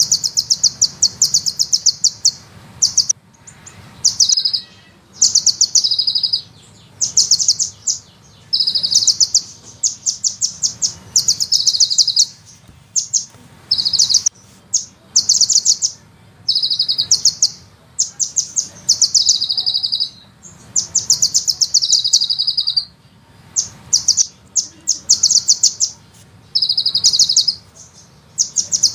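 A sunbird singing fast, high rattling trills in short bursts, repeated every second or two.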